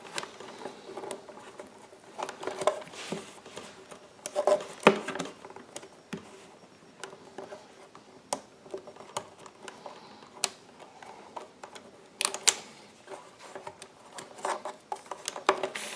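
Irregular light clicks and taps of hands and a tool working on plastic parts, as a nylon cable tie is worked free from a wiring harness, with sharper clicks about five seconds in and again near the end.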